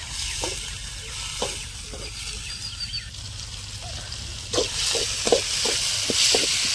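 Sliced onions, capsicum and tomato sizzling as they fry in oil in a metal kadai, stirred with a metal spoon that knocks and scrapes against the pan. The sizzle grows louder about two-thirds of the way through, and the scrapes come quickly near the end.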